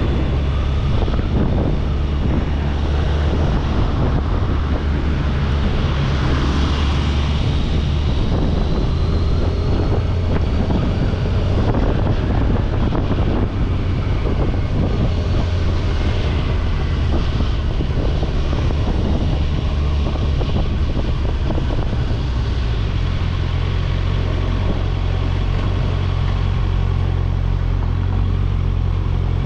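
Kawasaki Ninja 1000SX inline-four engine droning steadily while riding, with wind rushing over the microphone.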